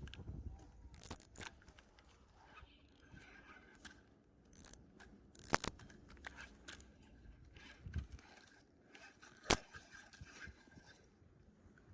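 Faint scattered clicks and scrapes of handling, with two sharp clicks, one in the middle and one near the end.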